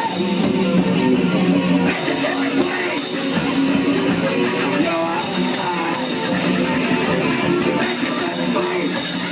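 Live rock band playing an instrumental passage: electric guitar, bass and drum kit, with no singing.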